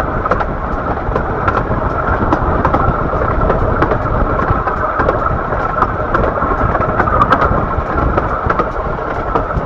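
A 15-inch gauge miniature railway train on the move, heard from a coach near the front: a steady rumble of wheels on rail, with many small clicks and rattles.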